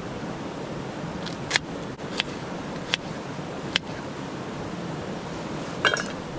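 Wood campfire burning: a steady hiss with a few sharp crackles, then a quick cluster of pops near the end.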